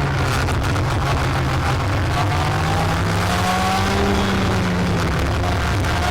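Racing kart engine running under load, heard onboard with heavy noise over it, its pitch rising and falling gently with the throttle through the corners.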